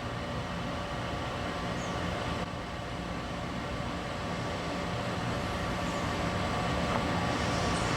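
Steady background hum and hiss that slowly grows louder, with two faint, short, high chirps.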